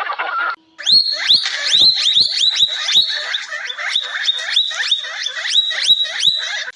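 An animal calling over and over, about three high calls a second, each sweeping up in pitch and then holding briefly.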